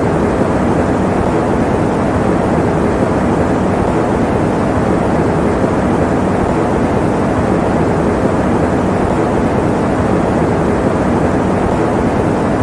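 Electric fan running steadily: an even, low-pitched rushing noise that does not change.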